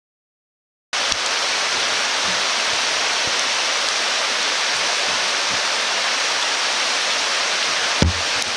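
A steady, even rushing hiss that starts abruptly about a second in, after total silence, with a couple of soft knocks near the end.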